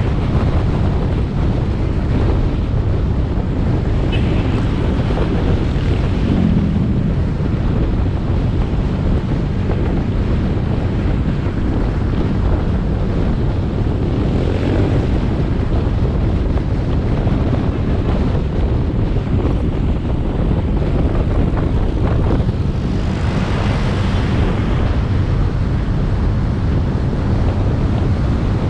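Riding motorbike heard from the rider's action camera: steady engine and road noise buffeted by wind on the microphone, with two louder swells about halfway through and near the end.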